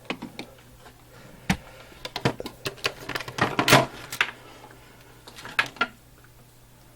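Hard objects being handled and set down on a table: an irregular run of sharp clicks, knocks and light clatter, densest about halfway through.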